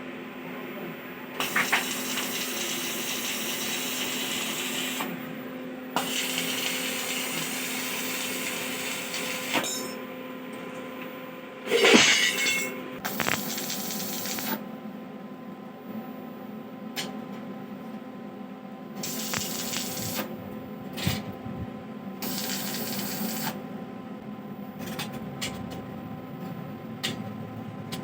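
A power tool running in several stretches of a few seconds each over a steady motor hum, with scattered metal clicks and one loud clank about twelve seconds in.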